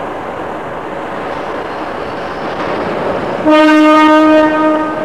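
Steady rumble of a Sydney 'Red Rattler' electric suburban train running, then about three and a half seconds in a short train horn blast of about a second sounds over it and fades.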